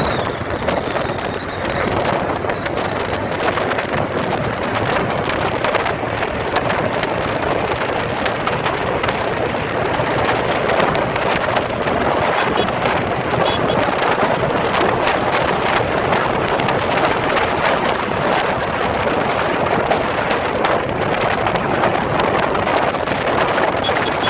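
Motorcycle engine running steadily while riding, a loud, noisy, unbroken drone.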